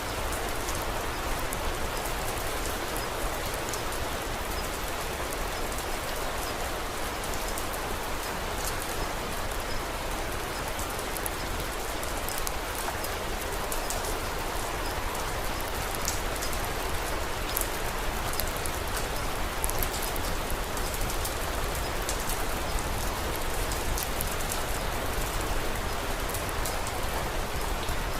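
Steady rain falling, an even hiss with many small, sharp ticks and pops scattered through it.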